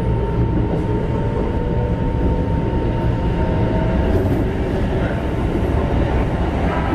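Keikyu 1500 series electric train with Mitsubishi GTO-VVVF control running along the line, heard inside the passenger car. A steady low rumble of wheels and running gear carries a thin, steady high tone.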